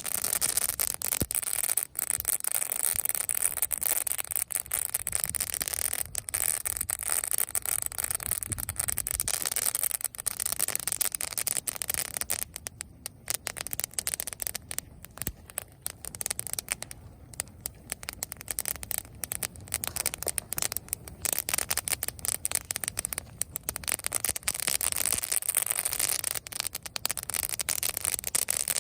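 Dry leaves on dead branches burning in a bonfire, crackling loudly in a dense, rapid stream of snaps and pops. The crackle thins and quietens for several seconds about halfway through, then picks up again.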